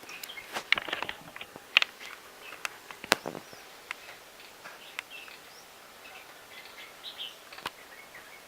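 Scattered sharp clicks and taps from handwork on small craft pieces, the strongest about three seconds in, with birds chirping faintly in the background.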